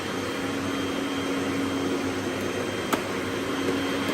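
Robot vacuum running with a steady whir and a faint high whine, with a single sharp click about three seconds in.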